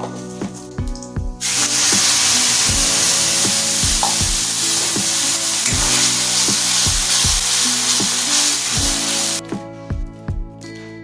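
Food sizzling loudly in hot oil in a pan. The sizzle starts suddenly about a second and a half in and cuts off abruptly near the end, with background music under it.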